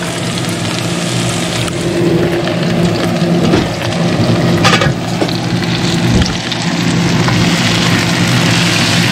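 Sliced bell peppers and onions sizzling in olive oil in a wok, with a spatula stirring and clicking against the pan. A steady low hum runs underneath.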